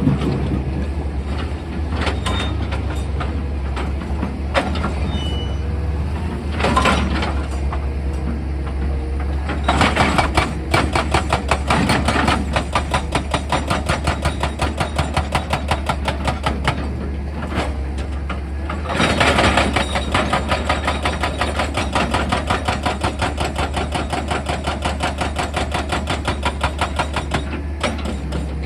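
An excavator's diesel engine running with a steady low hum, while its percussive drill hammers rock in rapid, even strokes. There are two long spells of hammering, one starting about ten seconds in and one just before the midpoint of the second half, with a few single knocks before the first.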